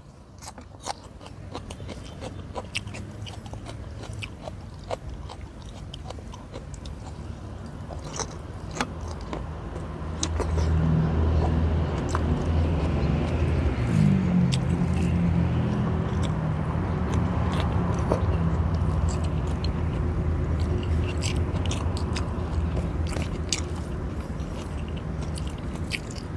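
Close mouth sounds of a man eating: biting into a raw green onion stalk, then chewing rice and fish with small wet clicks and smacks. From about ten seconds in, a low engine hum comes up underneath and runs for most of the rest, fading near the end.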